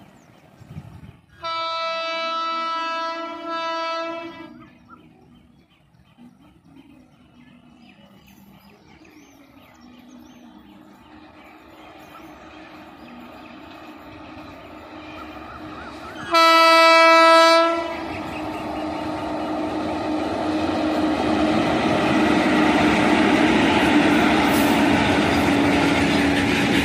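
Twin electric locomotives hauling petroleum tank wagons sound two horn blasts: a long one about a second and a half in and a shorter one past the middle. Then the train's running noise of wheels and wagons grows steadily louder as it draws close and passes.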